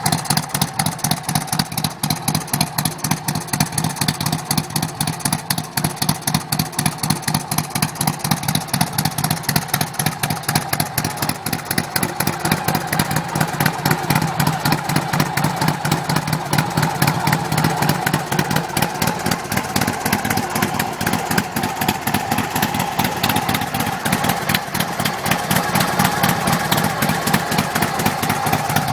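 Harley-Davidson V-twin motorcycle engine idling steadily, a quick, even run of exhaust pulses.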